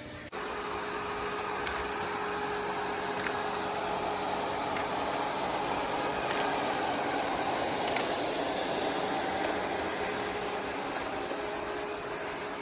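ECOVACS Deebot T50 Pro robot vacuum running: a steady whir of its suction motor with a faint steady hum under it, setting in abruptly a moment in.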